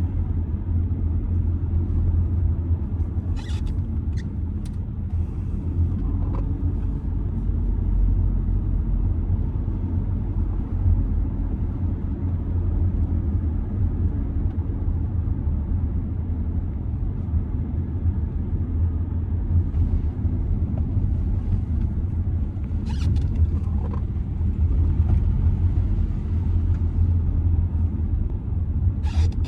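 Steady low rumble of a 2007 Audi A6 C6's 2.0 TDI four-cylinder turbodiesel running, with road and drive noise, broken by short clicks a few seconds in, about 23 seconds in and again at the very end.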